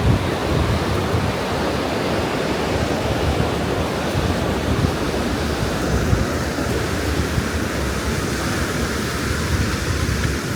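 Steady wash of ocean surf breaking on a beach, with wind buffeting the microphone in a low rumble.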